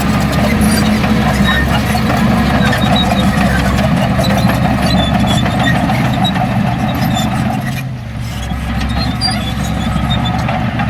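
Heavy diesel engine of earthmoving machinery running steadily, dipping briefly in level about eight seconds in before coming back up.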